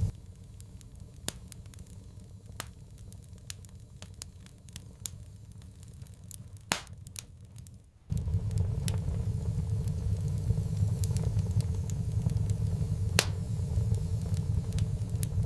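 Wood fire crackling, with scattered sharp pops and snaps. A low rumbling roar from the fire is missing for the first half and cuts back in suddenly about halfway through.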